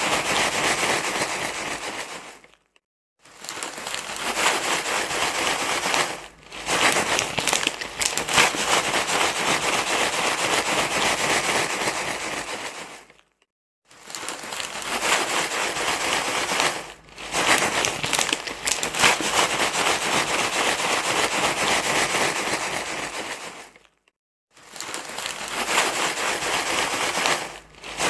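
Dense, continuous crinkling rustle, like material being crumpled, played as a baby-soothing noise. It stops for three brief silences, about three seconds in, about thirteen seconds in and about twenty-four seconds in, with shorter dips between.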